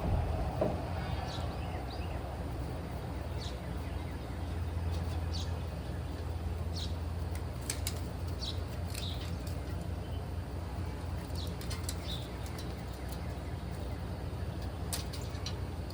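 Birds chirping in short scattered calls over a steady low mechanical hum.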